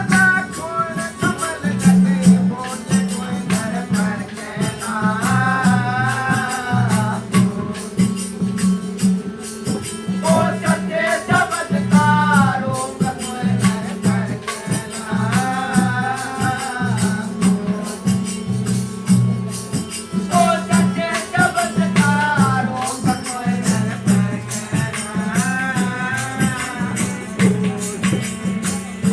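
Devotional bhajan singing at a satsang: a lead voice sings phrases of about two seconds, one roughly every five seconds. Behind it run a steady low pulsing accompaniment and continuous shaken, jingling percussion like a tambourine or rattle.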